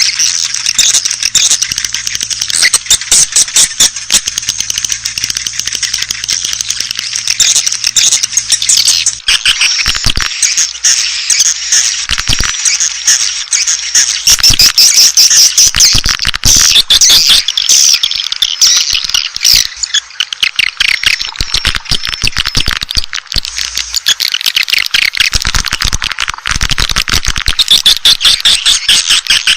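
Swiftlets twittering in a dense, rapid, high-pitched stream of chirps that runs on without a break. It is a swiftlet lure call ('suara panggil walet'), the kind played to draw swiftlets into a nesting house.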